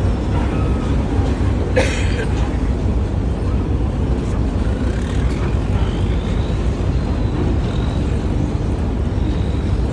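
Boat engine running with a steady low rumble. A brief, sharper higher-pitched sound cuts in about two seconds in.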